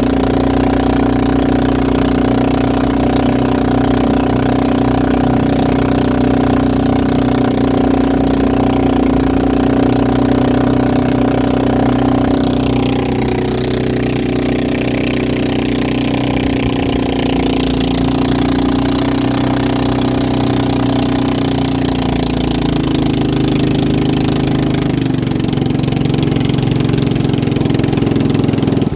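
Motorboat engines running steadily at speed, loud and unbroken, with part of the sound gliding down in pitch about halfway through.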